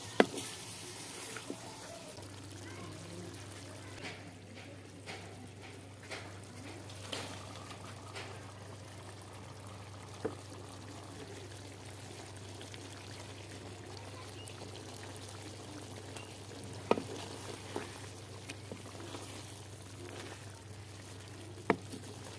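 Baingan chicken curry cooking in a pot, sizzling steadily, with occasional sharp knocks of a utensil against the pot.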